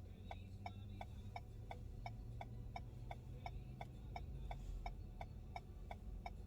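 A car's turn-signal indicator clicking steadily, about three clicks a second, over the low steady hum of the car waiting at a red light.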